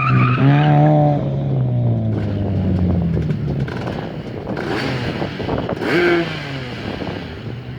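A Subaru's engine revving on an autocross run with a manual gearbox: the engine note holds, then falls in pitch and fades over the next few seconds, with a short rev again near the end.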